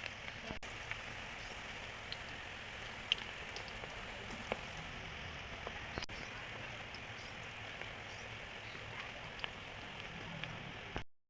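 Battered cabbage deep-frying in hot oil: a steady sizzle with scattered sharp pops and crackles.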